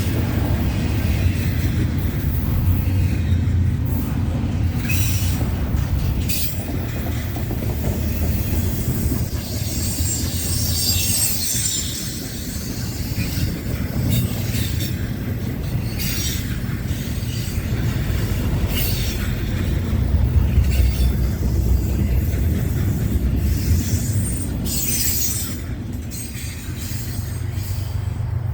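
Norfolk Southern freight train's cars rolling past with a steady low rumble of wheels on rail, and every few seconds a brief high wheel squeal.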